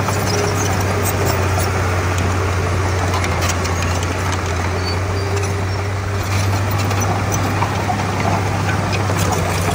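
Komatsu D31P bulldozer's diesel engine running steadily at working revs, with a constant low drone and scattered light clanks.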